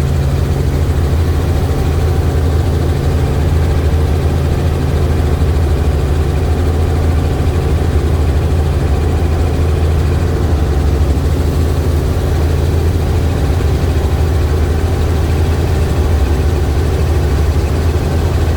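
Helicopter engine and rotor running steadily: a constant low drone with no change in pitch or level.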